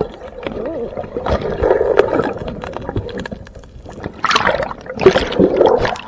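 River water gurgling and splashing around a kayak, with a few sharp knocks, and louder splashing near the end.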